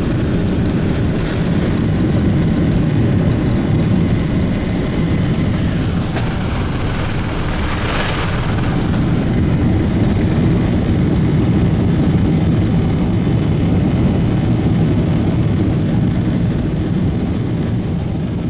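Steady rumble of a Boeing 747-400's four jet engines and rushing air heard inside the cabin, even in level, with a brief rise in high hiss about eight seconds in.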